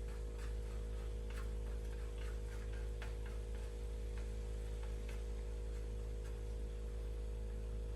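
A spatula ticking and scraping lightly against a frying pan at irregular moments, loosening the setting omelette egg from the bottom so it doesn't stick. A steady low hum runs beneath it.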